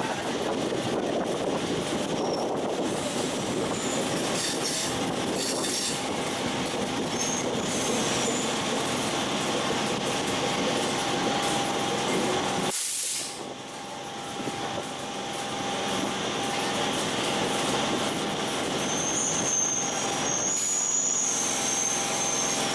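MEMU electric train running along the track, a steady rumble with the wheels squealing in short high-pitched spells, most clearly near the end. The sound drops away briefly about halfway through.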